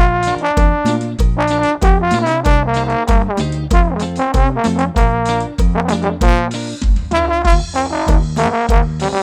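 Band playing a cumbia, a trombone carrying the melody in held and moving notes over a steady bass-drum beat about twice a second; a cymbal wash joins about seven seconds in.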